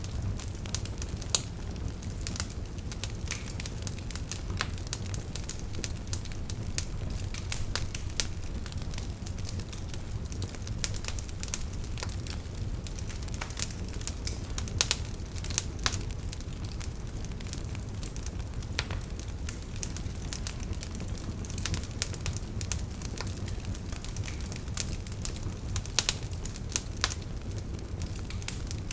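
Campfire burning firewood, crackling steadily over a low rumble of flame, with frequent small snaps and a few louder pops.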